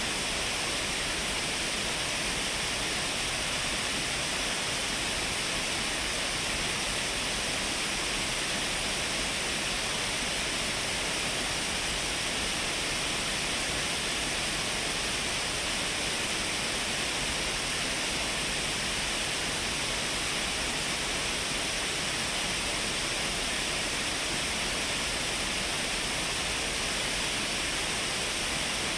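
Shiraito Falls, a waterfall, with water falling and splashing in a steady, unbroken rush of noise, brightest in the upper-middle range.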